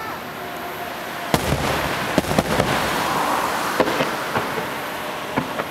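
Fireworks bursting: a rapid cluster of sharp bangs begins about a second in, with crackling, then scattered single bangs follow.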